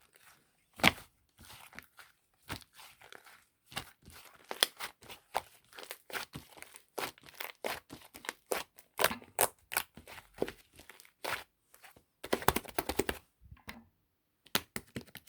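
Clay slime being squished and pulled by hand, giving irregular crackling, sticky popping clicks with short pauses.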